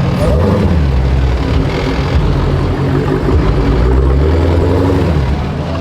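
Loud, low car engine rumble close by, running steadily, easing in pitch slightly about half a second in and dropping off shortly before the end.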